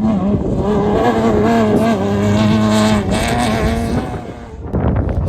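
Off-road race vehicle's engine running hard at high revs as it passes, its note holding high and wavering, then falling away about four seconds in, followed by rough crackling noise near the end.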